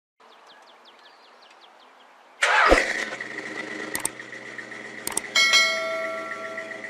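1984 Ford Mustang GT350's engine cranking on the starter, then catching about two and a half seconds in and running with a steady tone. A couple of sharp clicks follow, and a second louder rise comes just past the middle.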